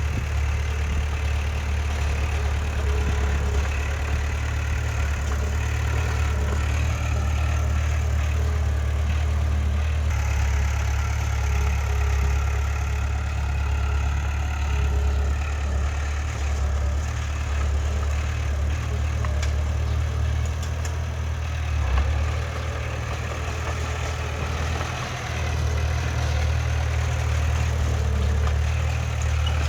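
Heavy earthmoving machine's diesel engine running steadily with a deep low hum, with a single brief knock about two-thirds of the way through.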